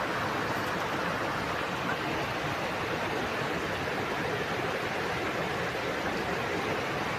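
A waterfall's falling water, rushing steadily without a break.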